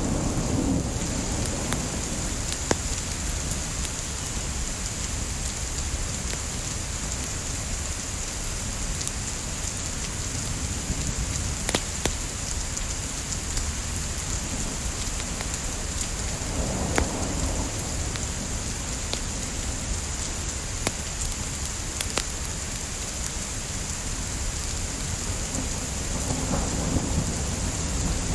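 Steady rain with a continuous low rumble, dotted with scattered sharp pops from crackling burning wood; the sound swells briefly twice.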